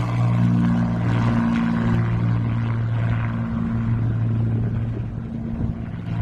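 Propeller engines of a multi-engine airplane running at high power for a short takeoff, a steady low drone with a rushing hiss over it, easing a little near the end.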